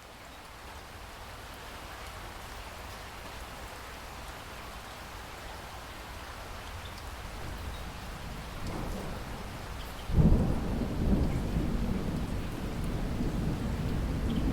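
Steady rain hiss that fades in and slowly grows louder. Low thunder begins rumbling about eight seconds in, then breaks into a loud thunderclap about ten seconds in and keeps rumbling in swells.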